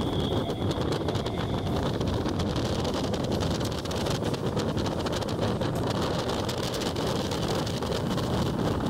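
Electric multiple unit suburban train running along the track: a steady low rumble with wind noise on the microphone, and a faint high whine that fades out in the first couple of seconds.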